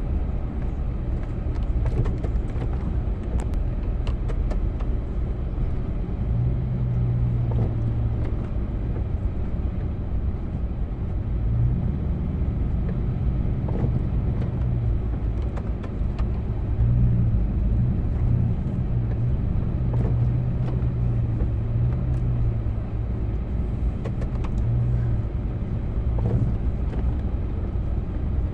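Engine of a snow-plowing vehicle running steadily, its low hum swelling and easing every few seconds, with scattered short knocks and clicks.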